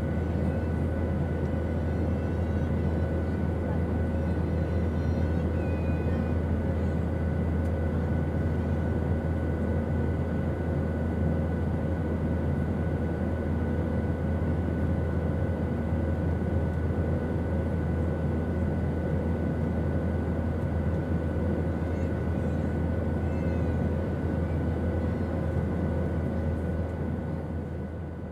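Airplane engine noise: a steady, unbroken drone with a strong low hum and a few faint steady tones over it, easing down slightly near the end.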